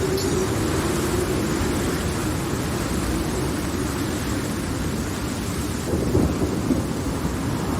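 Steady rain with a continuous low rumble of thunder, the rumble swelling briefly about six seconds in.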